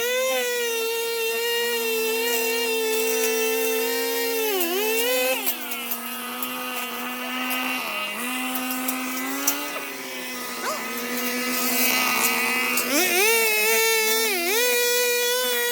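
Two-stroke brush cutter running at high speed with a steady engine whine. Its pitch dips sharply and recovers twice, about four to five seconds in and again near the end, as it cuts into the growth.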